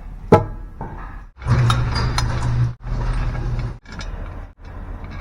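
Tools at work on an engine as bolts are run down: a sharp metallic click, then a few short spells of a small tool motor running with a steady low hum and clatter, each stopping abruptly.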